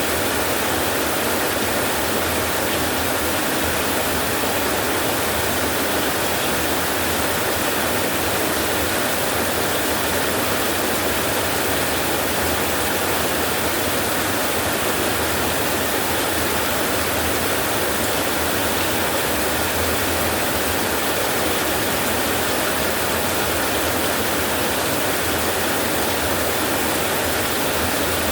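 Rain falling steadily, a dense, even hiss that does not rise or fall.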